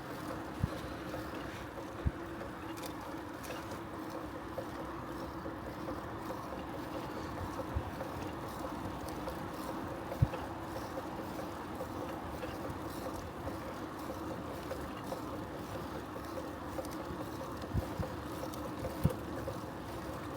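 Bicycle on the move: a steady rolling hum from the tyres and drivetrain, with a few short low thumps as the bike goes over bumps.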